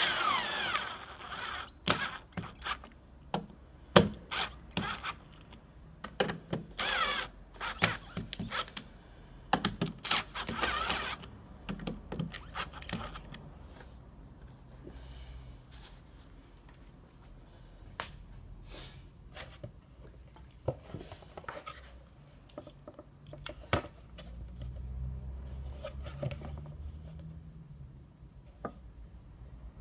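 A power tool whirring in short runs, its pitch sliding as it speeds up and slows down, the loudest right at the start and again twice around the middle. Between and after the runs come clicks and knocks of tools and parts being handled, then a low rumble near the end.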